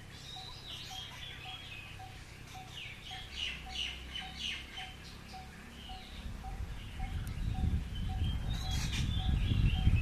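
Short, sharp bird chirps, a busy flurry in the middle and another burst near the end, over a faint regular ticking about two or three times a second. A low rumble grows louder over the last few seconds.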